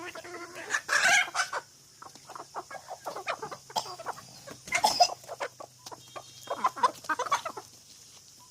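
A flock of chickens clucking in quick, short calls, with louder squawks about a second in and again around five and seven seconds.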